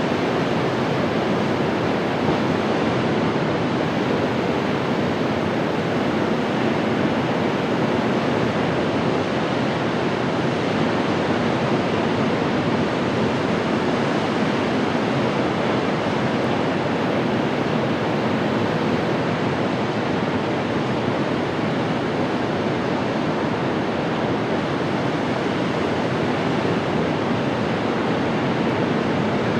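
Steady rushing of wind and water aboard a boat under way, an even roar with no breaks.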